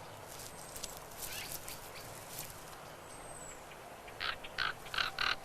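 Common ravens calling: several short calls in quick succession near the end, over a faint outdoor background with a couple of thin, high bird notes earlier.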